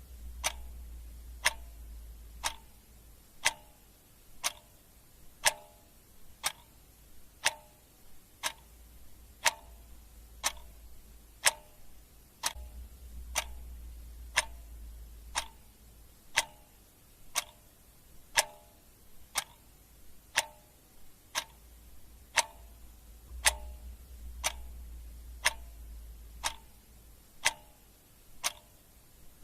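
Clock ticking steadily at about one tick a second, with the ticks alternating louder and softer in a tick-tock rhythm.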